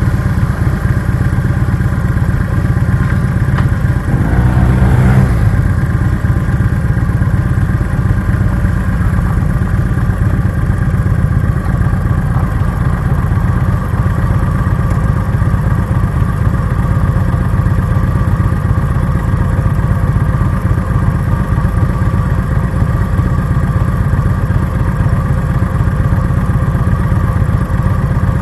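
Harley-Davidson V-twin motorcycle engine idling at a stop, a steady loud rumble. About four to five seconds in, the pitch shifts briefly as the bike comes to rest, then the idle holds steady.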